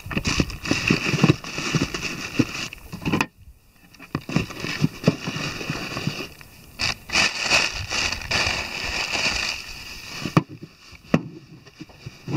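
Handling noise of gear being packed into a motorcycle pannier: rustling and irregular knocks and clunks. It cuts out abruptly about three seconds in, then resumes.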